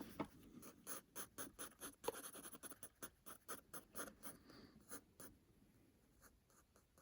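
Micron fineliner pen scratching on paper in short, quick strokes, about three a second, thinning out after about five seconds.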